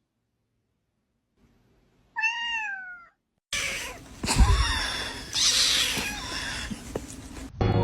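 A cat meowing once, a single call of about a second that falls in pitch, about two seconds in. About a second later comes a few seconds of loud noisy sound with no clear pitch.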